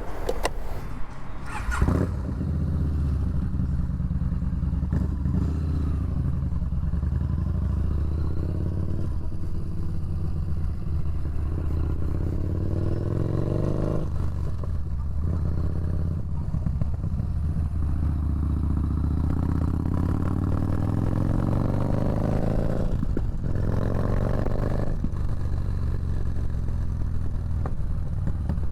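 Motorcycle engine running under way. Its pitch climbs steadily twice as it accelerates and drops off suddenly each time, about halfway through and near the end, as the revs fall.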